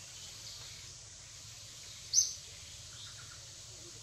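A single short, high-pitched bird call about two seconds in, over a steady outdoor background hiss.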